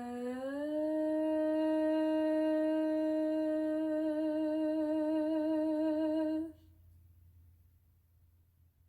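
A single voice holding one long note, hummed or sung, that slides up about a third about half a second in. It then sustains with a slowly widening vibrato and stops abruptly near the end.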